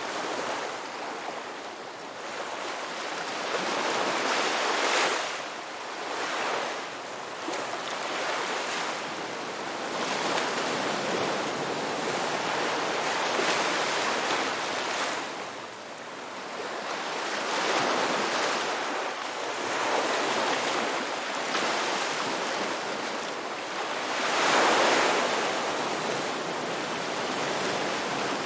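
Ocean waves breaking and washing up on a rocky beach: a continuous rush of surf that swells into a louder break every few seconds.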